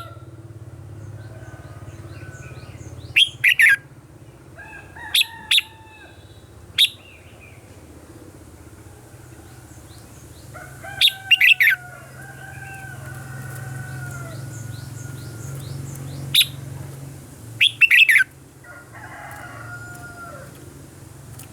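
Red-whiskered bulbul singing short, loud whistled phrases every few seconds, with fainter bird chirps and a steady low hum in the background.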